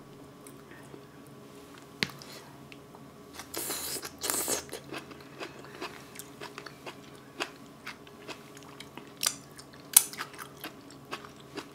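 Close-miked chewing of soft braised kimchi, with many small wet mouth clicks and smacks. About a third of the way in comes a longer breathy slurp, and near the end a sharp smack as she sucks sauce off her fingers.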